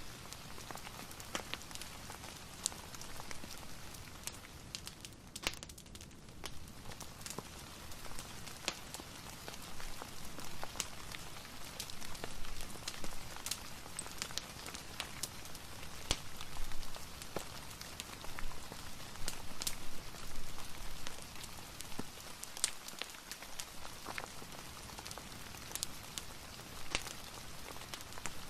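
Steady rain falling, mixed with scattered sharp crackles and pops of a wood fire.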